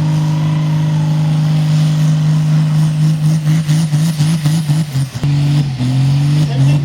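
Tractor-pull tractor engine running loud with a steady note that turns rough and pulsing about three seconds in. Near the end it dips briefly, drops in pitch and then climbs again.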